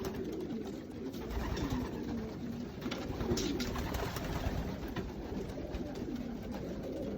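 Young racing pigeons cooing, several birds overlapping continuously, with a few light clicks among them.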